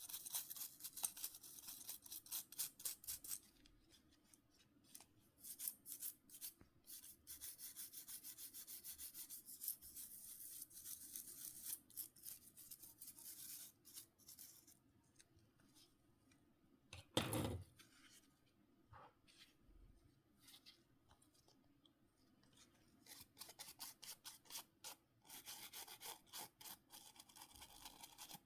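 Small brush scrubbing mobile-phone parts in rapid back-and-forth strokes, in spells broken by pauses. A single knock about two-thirds of the way through is the loudest sound.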